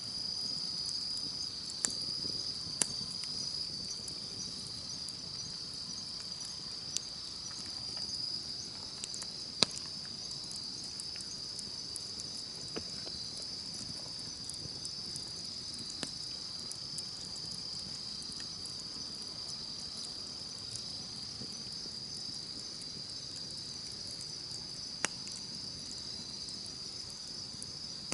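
A steady, high insect chorus, with a campfire crackling underneath and a few sharp pops of burning wood, the loudest about nine and a half seconds in.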